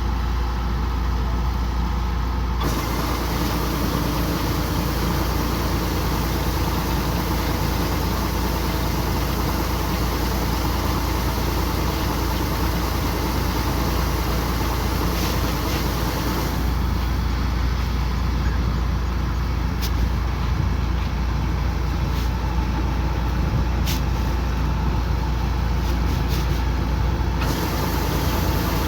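Kubota combine harvester's diesel engine running steadily under load. A broad rushing hiss joins the drone from about three seconds in until past the middle, and again near the end.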